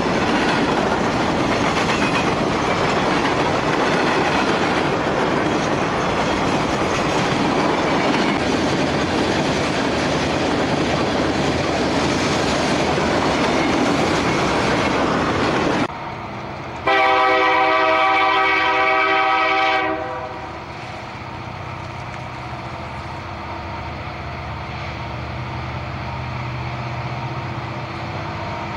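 Freight cars rolling past at close range with a steady loud rumble. After an abrupt cut, a diesel locomotive's horn sounds one blast of about three seconds. Then comes the quieter, steady low running of the approaching diesel locomotive.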